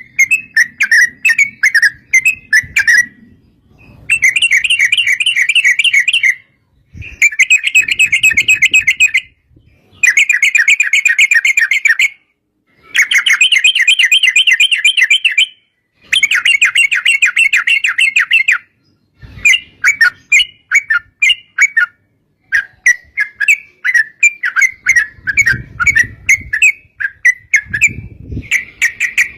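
Yellow-vented bulbul (trucuk) singing long rapid trills: runs of fast, bubbly repeated notes lasting two to three seconds each, separated by short pauses, breaking into choppier, looser phrases toward the end.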